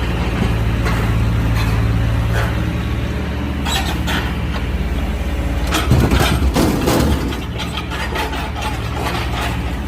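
Excavator's diesel engine running steadily, with several knocks and a louder clatter about six to seven seconds in as the machine works the oak logs.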